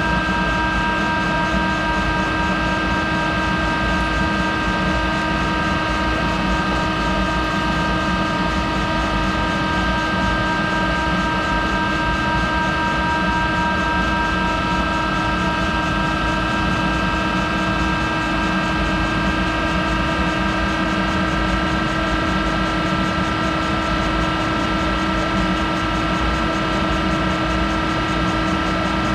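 Monarch 10EE lathe running steadily while machining a hardened tool holder. It gives a constant whine of several steady tones over a low rumble, unchanging throughout.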